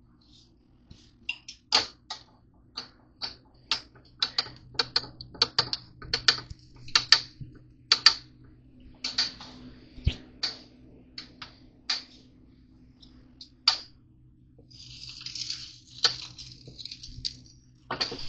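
A run of irregular sharp clicks and taps, two or three a second, over a low steady hum, with a short burst of hiss about three quarters of the way through.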